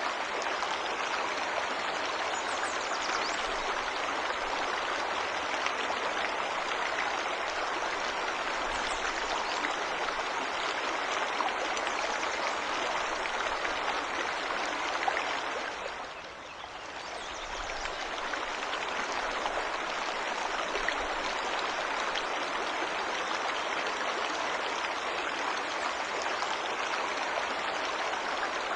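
Waterfall in a forest: steady rushing water that dips briefly in level a little past halfway, then returns.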